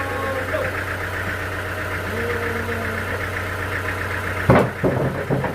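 An engine running steadily at idle, with several sharp knocks about four and a half seconds in.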